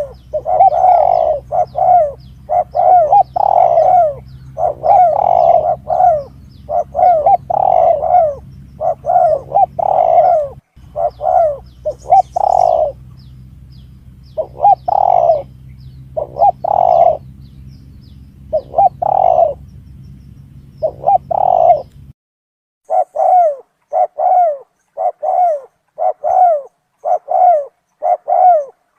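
Spotted dove cooing in repeated phrases of short coos, a recorded lure call for drawing in doves. A low steady hum runs under the calls and stops suddenly about three-quarters of the way through.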